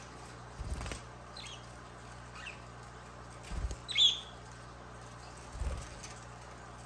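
Pet budgerigar giving a few short high chirps, one much louder about four seconds in. Three low soft thuds fall in between, over a steady low hum.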